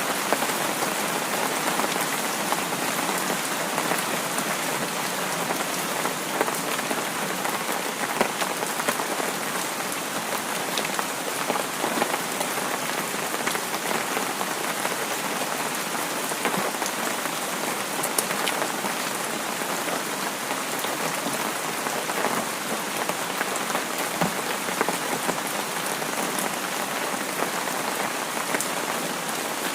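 Steady rain falling on a surface, an even hiss dotted with scattered individual drop ticks.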